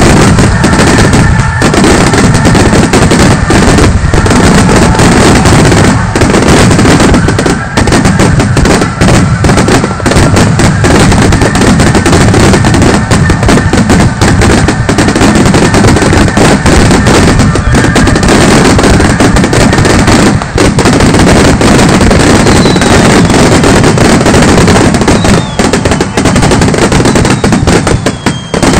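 Fireworks finale barrage: a dense, unbroken run of shell bursts and crackling going off on top of one another, very loud throughout.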